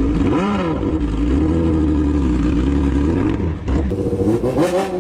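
Engine of an engine-swapped golf cart running loudly, its pitch rising and falling as it is revved about half a second in and again near the end.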